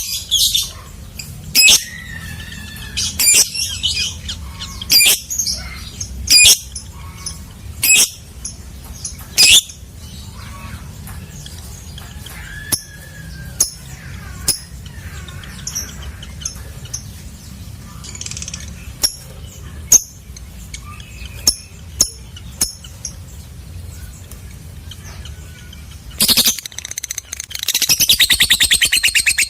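Lovebird calling: shrill, sharp chirps about every second and a half for the first ten seconds, then softer twittering. Near the end comes a fast, continuous rattling trill, the long 'ngekek' chatter.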